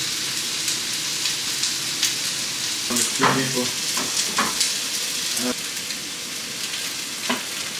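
Chicken sizzling as it fries in a pan, a steady hissing crackle with scattered sharp clicks.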